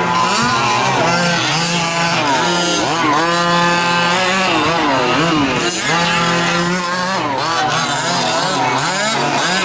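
Small gas engines of several 1/5-scale RC trucks racing, each revving up and down as they accelerate and back off, their rising and falling pitches overlapping.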